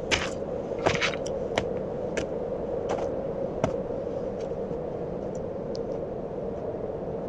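Footsteps on a steep mountain trail, sharp crunching steps roughly every two-thirds of a second that thin out after about four seconds, over a steady background hiss.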